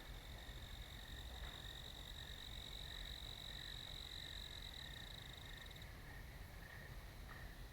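Night insects in a meadow: one steady, high-pitched trill that cuts off abruptly about six seconds in, over a fainter chorus of regular chirps repeating about twice a second.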